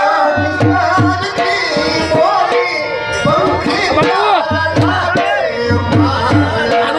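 Live Gujarati folk music: a wavering, ornamented lead melody over dhol drum strokes that come in repeating groups.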